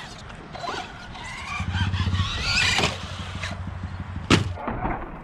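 Brushless electric motor of an RC short course truck (3665 3100kv on 4S) whining up in pitch as it accelerates, then one sharp, loud impact about four seconds in.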